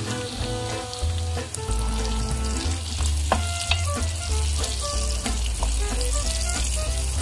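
Diced bacon and chopped garlic sizzling in a frying pan, stirred with a wooden spatula about halfway through, over background music with a steady bass.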